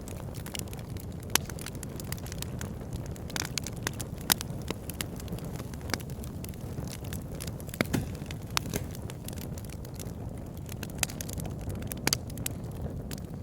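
Wood fire burning in a fireplace, crackling steadily with irregular sharp pops from the logs over a low rumble of the flames.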